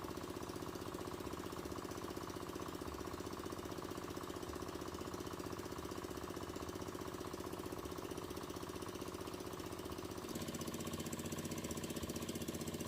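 A small engine running steadily with a rapid, even pulse. About ten seconds in the sound changes and gets a little louder.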